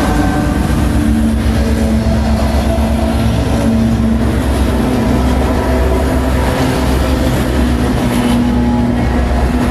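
Diesel-hauled freight train running, a loud, steady engine drone over a low rumble.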